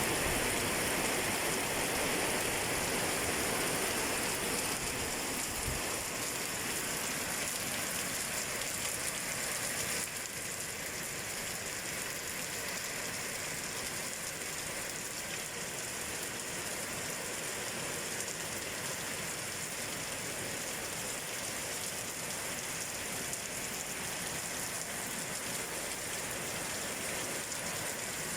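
Heavy rain falling steadily, an even hiss of a downpour on surfaces, dropping slightly in level about ten seconds in.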